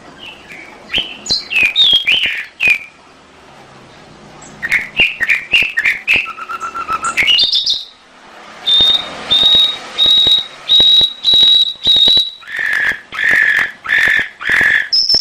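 Domestic canary singing: quick varied chirps and sweeping notes, then a run of about seven clear repeated high notes, followed near the end by a run of lower repeated notes.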